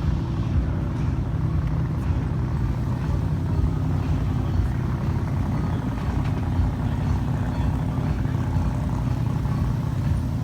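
A motor vehicle's engine running steadily, a continuous low rumble with a constant hum in it.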